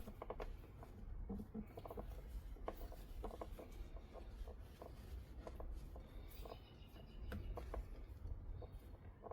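Faint rubbing and scattered light clicks of a touchscreen display being wiped clean of old adhesive with pads and paper towel.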